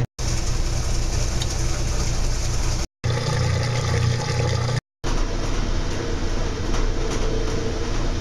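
Kenmore washing machine running with water churning and sloshing in the drum over a steady low motor hum. It comes in three stretches, broken by two brief cuts to silence.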